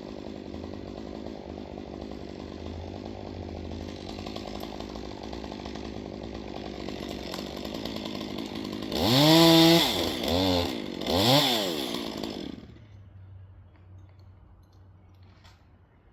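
Two-stroke chainsaw running steadily, then revved hard three times, its pitch climbing and falling each time, before it falls quiet about thirteen seconds in.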